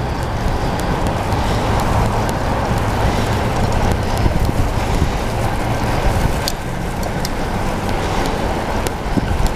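Steady wind rush on a cycling GoPro's microphone while riding in traffic, with scattered light clicks.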